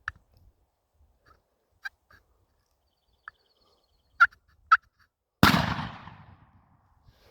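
A few short, sharp turkey calls, then a single loud gunshot about five seconds in, the shot of a turkey hunter firing at a gobbler, echoing away over a second or so.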